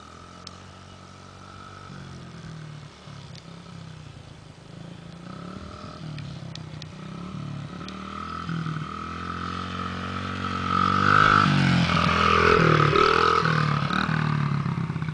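Small dirt bike engine revving up and down as it rides the track, growing louder as it comes close from about ten seconds in, then fading near the end.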